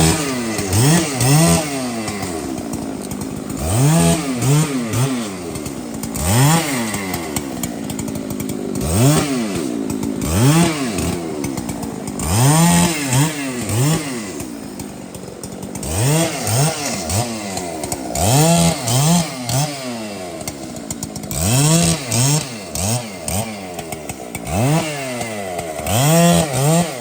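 Large two-stroke chainsaw revved up and let fall back again and again, a rise and drop in engine pitch every second or two.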